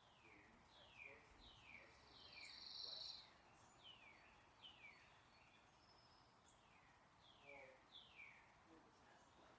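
A bird singing faintly: a run of short whistled notes, each sliding down in pitch, repeated about twice a second with a short pause midway. A brief steadier high-pitched sound two to three seconds in is the loudest moment.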